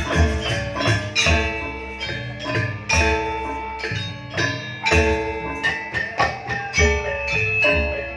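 Gamelan ensemble playing janger dance music: bronze metallophones ring out struck melodic notes over drum strokes, with loud accented strikes every second or two.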